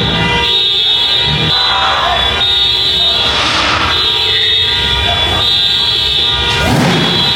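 A vehicle horn held in long, steady blasts with a few short breaks, over the noise of a crowd and cars.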